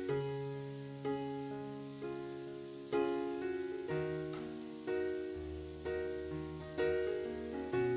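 Background piano music: slow chords struck about once a second, each ringing and fading, over held bass notes.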